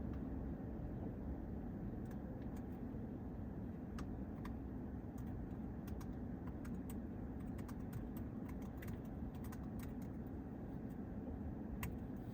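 Steady low vehicle rumble with scattered faint light clicks.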